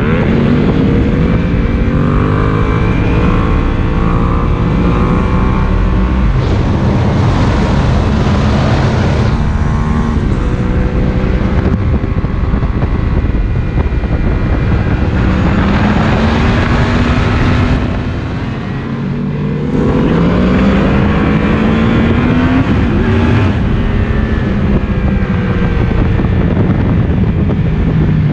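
Yamaha MT-10's crossplane inline-four engine, through an Akrapovic slip-on exhaust, accelerating hard on the road. The revs climb steadily, fall back and climb again several times as it goes up through the gears, with a short easing off the throttle about two-thirds of the way in.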